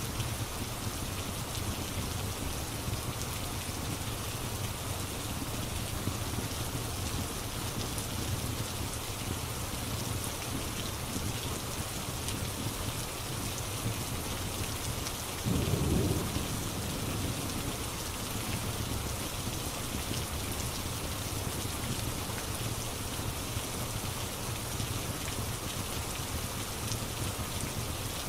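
Steady rain falling, an even hiss throughout, with one short low rumble of thunder about halfway through.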